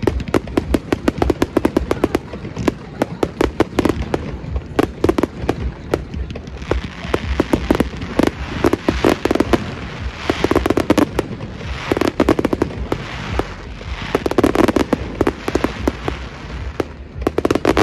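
Fireworks display: a fast, near-continuous barrage of aerial shells bursting, bang after bang with many overlapping.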